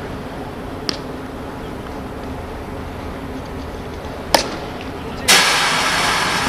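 Two sharp knocks over steady outdoor background noise, the second louder, about three and a half seconds apart. A little past five seconds in, a loud rushing noise sets in suddenly and slowly fades.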